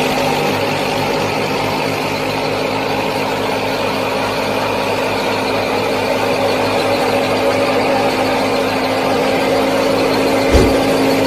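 Small motor of a miniature model machine running steadily with a constant hum, and a single low thump about ten and a half seconds in.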